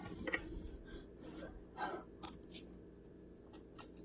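A person's sharp breaths through the mouth, several short gasps, as she cools a freshly burned mouth.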